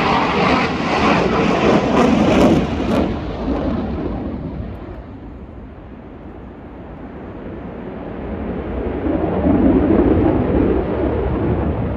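Aircraft engine noise from planes flying past at an air show. A loud pass fades away by about halfway through, and a second one swells up near the end.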